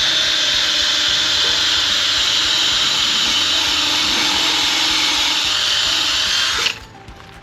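A handheld power tool running steadily at full speed, stripping old anti-fouling paint from a boat propeller. It stops suddenly near the end.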